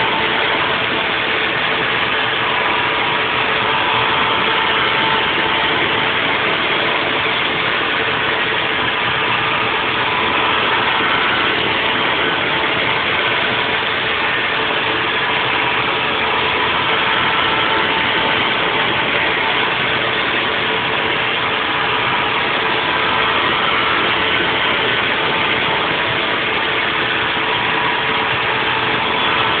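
Haas VF4 CNC vertical mill running a 3D machining program on a nest block: a steady spindle and cutting noise with a constant hum underneath and a fainter higher tone that comes and goes.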